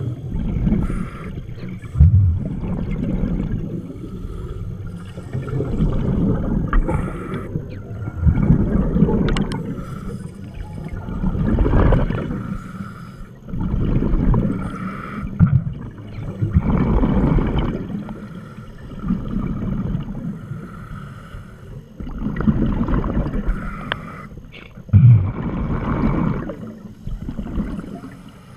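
Scuba diver's regulator heard underwater: breaths drawn in and bubbles gurgling out on each exhale, swelling and fading every three or four seconds.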